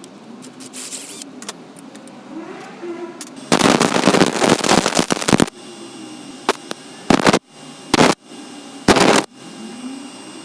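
Home-made belt grinder, driven by an angle grinder, grinding metal: one harsh pass of about two seconds, then four short bursts.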